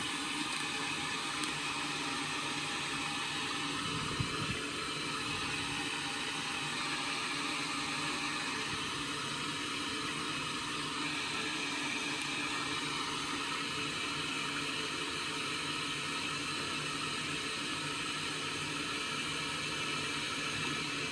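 Indesit washing machine filling with water, a steady hiss of water running in through the inlet valve while the drum stands still. There is one small knock about four seconds in.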